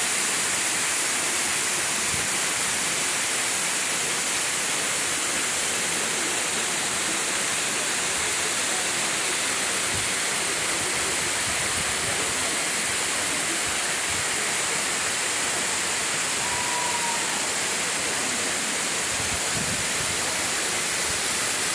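Steady rush of flowing water, an even unbroken hiss of a waterfall or fast stream, with a brief faint high chirp about three-quarters of the way in.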